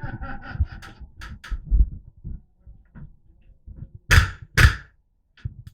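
Airsoft gunfire: a quick run of sharp clicks and knocks, then two loud shots about half a second apart, about four seconds in.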